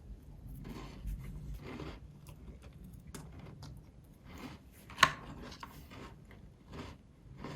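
Quiet, irregular small clicks and rustles of things being handled at close range, with one sharper click about five seconds in.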